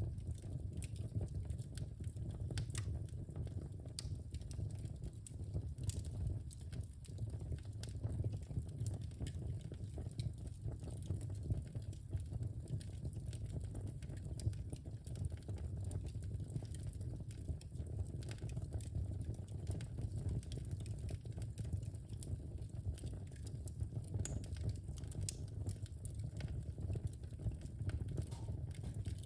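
Wood fire in a fireplace crackling: frequent small snaps and pops, irregularly spaced, over a steady low rumble.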